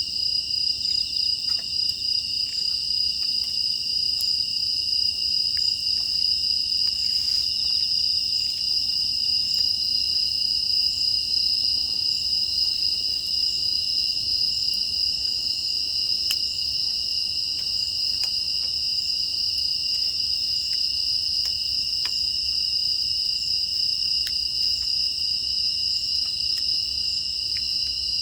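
Steady chorus of crickets and other grass insects, a continuous high-pitched trilling, with faint scattered pops of a wood fire crackling.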